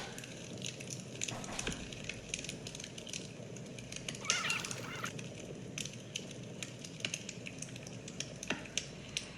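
Scattered light clicks and taps, with a short warbling chirp about four seconds in.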